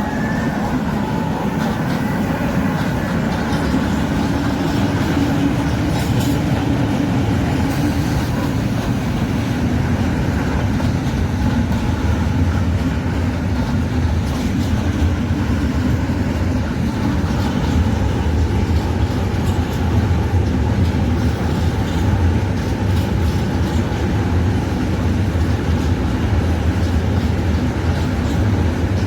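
ČD Cargo freight train, hauled by a Bombardier Traxx MS3 and a Siemens Vectron Dual Mode locomotive, rolling through the station with a steady, continuous low rumble.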